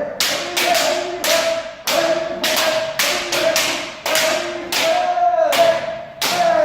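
Kendo practice: bamboo shinai cracking against armour and against each other about a dozen times in quick, irregular succession, with sustained kiai shouts between the strikes.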